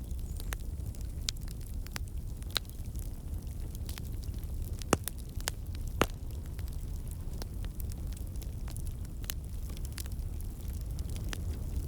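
Fire burning in a fireplace: irregular crackles and sharp pops over a steady low rumble, with the loudest pops about five and six seconds in.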